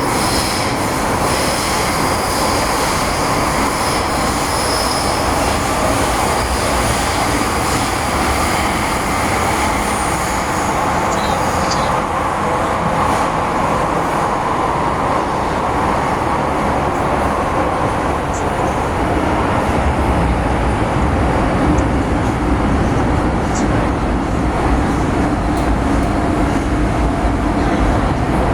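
MTR Kwun Tong Line M-Train (Metro-Cammell electric multiple unit) running steadily between stations, with a high-pitched wheel squeal over the first several seconds that fades away, and the low rumble growing heavier near the end.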